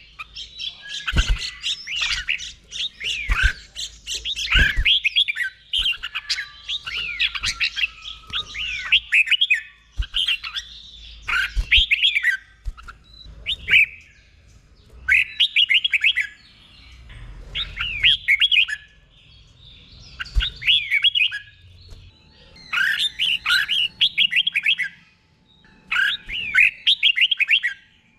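Red-whiskered bulbul singing: repeated short phrases of quick, bright chirping notes, each phrase lasting one to two seconds with brief pauses between. A few sharp low knocks come in the first half.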